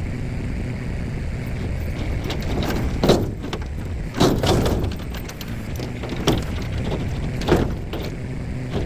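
A steady low machine hum with irregular sharp knocks, a few seconds apart.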